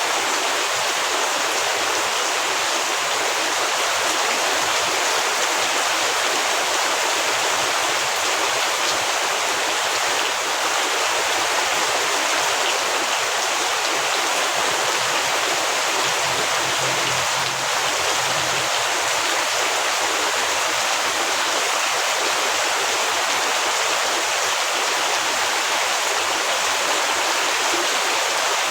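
Heavy rain falling steadily, an even, unbroken rushing hiss.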